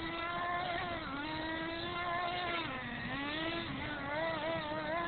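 Fuel-burning engine of a radio-controlled monster truck running at high revs. Its pitch wavers and dips briefly about a second in and again near three seconds as the throttle eases and opens.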